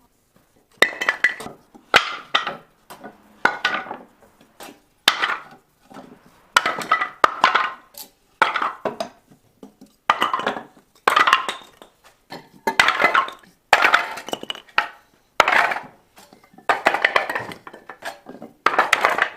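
Firewood being chopped for the stove: a run of sharp chopping strikes with splintering wood, roughly one a second.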